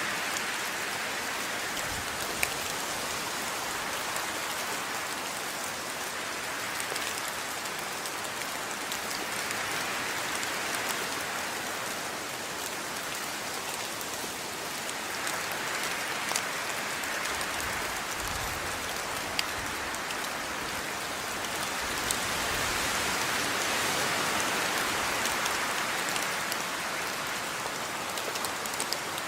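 Steady rainfall, a dense hiss of drops with scattered sharper drip ticks, swelling and easing slowly in intensity.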